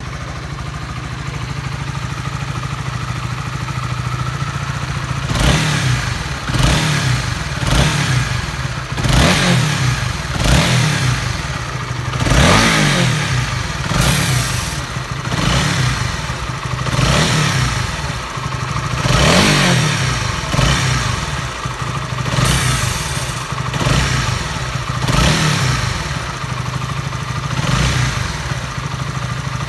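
Honda CBR150R's single-cylinder four-stroke engine idling evenly, then blipped up and down repeatedly, about once a second, from about five seconds in. Through it runs an abnormal noise that the owner calls bad and cannot diagnose.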